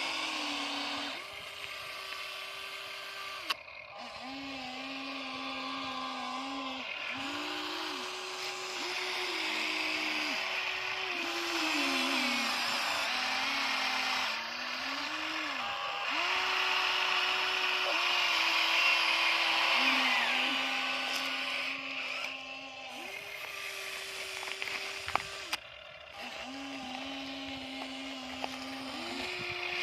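Huina 1593 RC excavator's small electric motors and gearboxes whining in stretches of a few seconds. The pitch steps up and down as motions start and stop, with a couple of sharp clicks.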